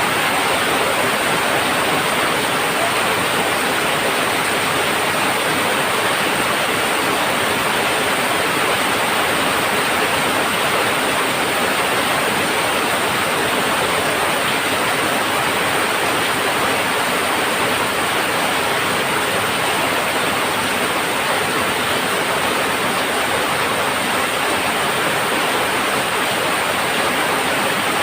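Heavy rain falling on a tin roof: a steady, dense hiss that holds even throughout.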